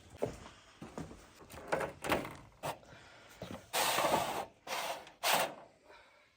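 Brooder cleaning: a few short knocks and clatters, then two louder bursts of scraping, about four seconds and five seconds in.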